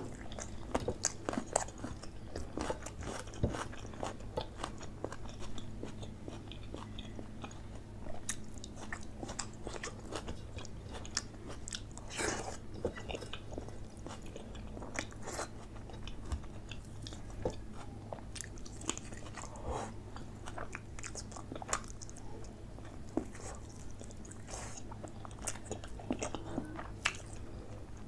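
Close-miked eating sounds: a man chewing and biting mouthfuls of chicken curry and rice eaten by hand, with irregular wet mouth clicks and smacks.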